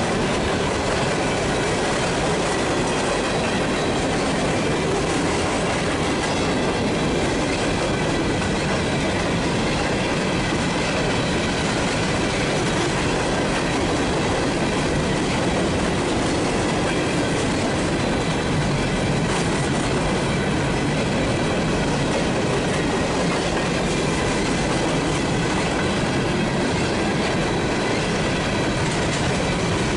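Freight train of open-top steel hopper cars rolling past steadily: a continuous rumble and rattle of wheels on rail, with faint steady high-pitched tones over it.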